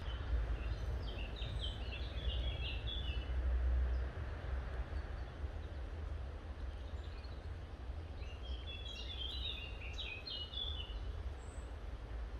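A small bird sings two phrases of quick, short high notes, one at the start and one a few seconds before the end, over a steady low rumble that is loudest in the first four seconds.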